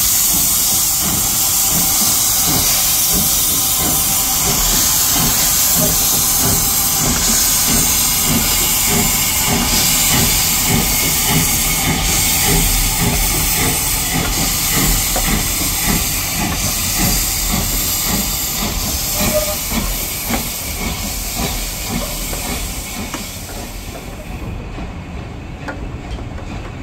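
Steam locomotive on a heritage railway, running with a loud steady hiss of steam over a quick rhythmic beat low down; the hiss drops away sharply near the end.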